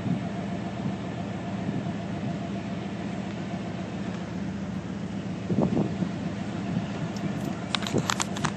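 Steady low hum of an idling engine, with a cluster of sharp clicks near the end.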